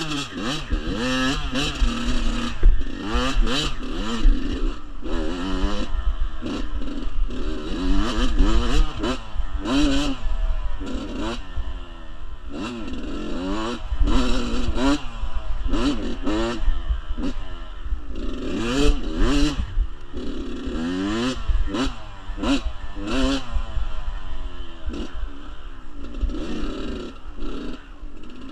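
Kawasaki KX85 two-stroke dirt bike engine revving up and falling back again and again while riding a rough trail, with clattering knocks from the bike over the rocks and a low rumble of wind on the microphone.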